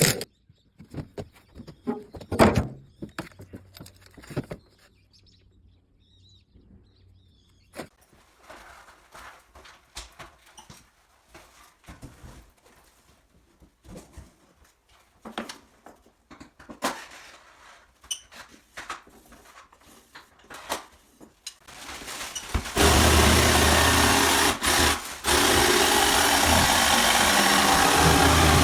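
Scattered knocks and clatter of hand work, then a power tool starts about three-quarters of the way in and runs loud and steady, with a brief stop-and-restart.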